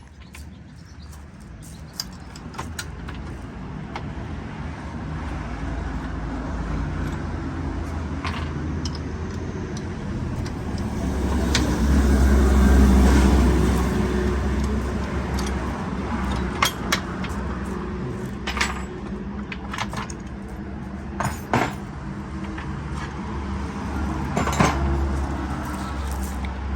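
Sheet-metal forming machine running: a steady low motor hum with sharp metallic clicks and clanks scattered through it, swelling louder about halfway through.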